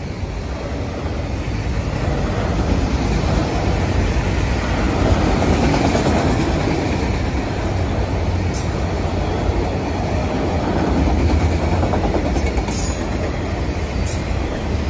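Freight cars of a Norfolk Southern manifest train rolling past: a steady loud rumble of steel wheels on rail, with a few sharp clicks in the second half.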